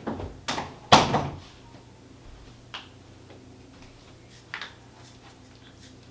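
Indoor knocks and bumps: three loud sharp knocks in quick succession in the first second, then two lighter ones a couple of seconds apart.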